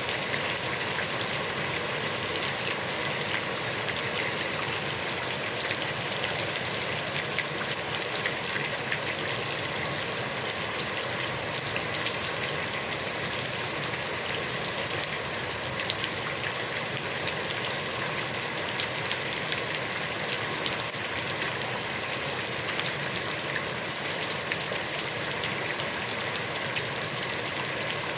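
Heavy rain pouring steadily onto a pond's water surface, a dense even hiss of countless drops with fine individual splashes.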